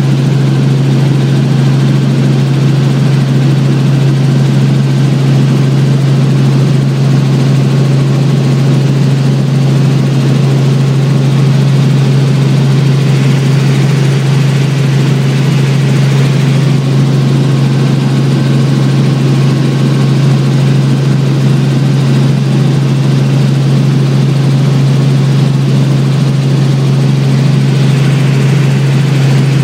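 Helicopter in flight: a steady, loud low drone of engine and rotor noise that does not change.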